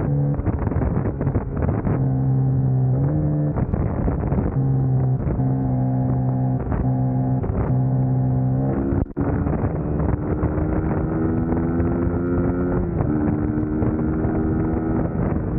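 Suzuki GSX-S150's single-cylinder engine pulling under way, its pitch holding, stepping between gears and climbing steadily as it accelerates, with wind noise on the microphone. There is a brief break about nine seconds in.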